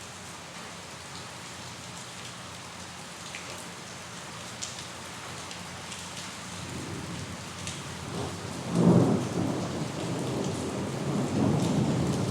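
Steady rain falling, with scattered drops ticking. About two-thirds of the way in, a loud clap of thunder breaks in and keeps rolling.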